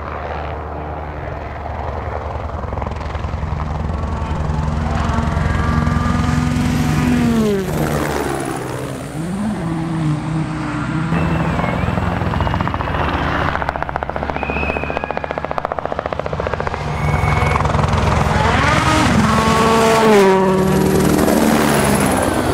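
A World Rally Car's turbocharged four-cylinder engine revving hard through the gears, its pitch climbing in steps and then dropping. This happens twice, about five seconds in and again near the end, over a steady low beat like a helicopter's rotor.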